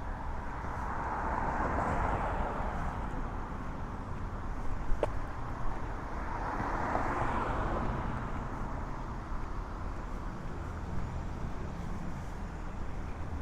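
Cars passing on a city street, their tyre and engine noise swelling as two vehicles go by, over a steady traffic rumble. A single sharp click about halfway through.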